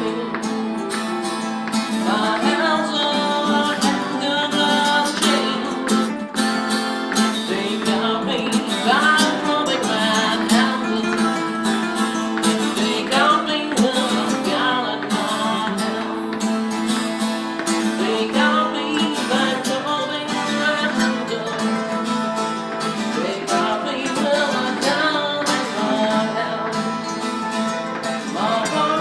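A song played on acoustic guitar with a voice singing over it.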